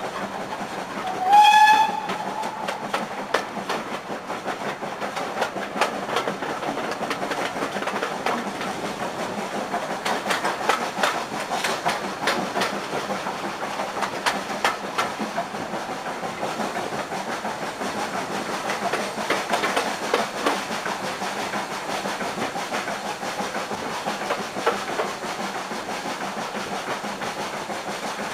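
Heritage railway train running, heard from an open carriage window: steady rolling noise with frequent clicks of the wheels over the rails. About a second in, the locomotive gives one short whistle that rises slightly in pitch, the loudest sound here.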